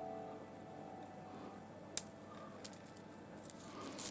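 A few light, sharp clicks of small hard objects being handled: one about two seconds in, another shortly after, and a quick cluster near the end. The last piano notes of background music fade out at the very start.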